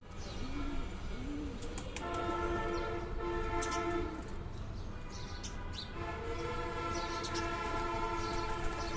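Pigeons cooing twice in the first second and a half, with small high bird chirps throughout. Two long, steady, many-toned horn-like sounds of about two and three seconds each come in, about two seconds and six seconds in.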